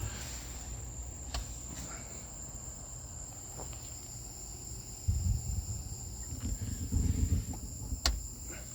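Crickets chirping in a steady high-pitched drone, with low rumbling thumps about five and seven seconds in and a sharp click near the end.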